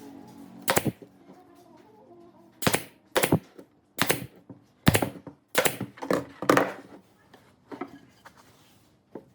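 A series of sharp knocks, about nine strikes at irregular intervals of half a second to a second.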